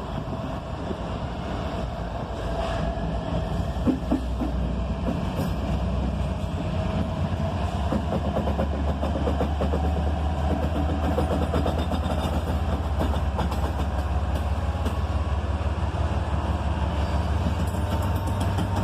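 Diesel freight locomotive hauling a loaded ballast train. Its low engine drone builds about a third of the way in and then holds, over the steady rumble and ticking of wheels on rail. There are a couple of sharp knocks about four seconds in.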